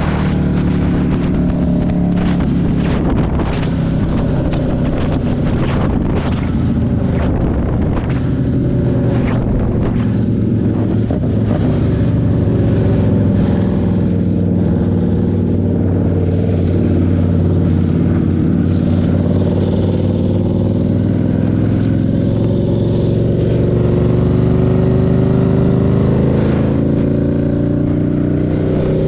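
Buell 1125CR's V-twin engine running on the road, its pitch slowly rising and falling with the throttle. Wind buffets the microphone in short gusts during the first ten seconds or so.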